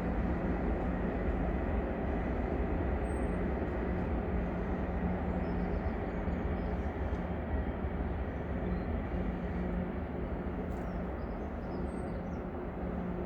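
Freight train running past: a steady rumble with a constant engine hum, easing slightly toward the end.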